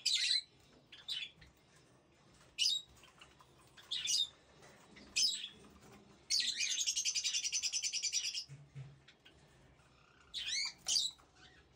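Small cage birds calling: a series of short, high chirps about a second apart, a rapid trill lasting about two seconds in the middle, then a few more chirps near the end.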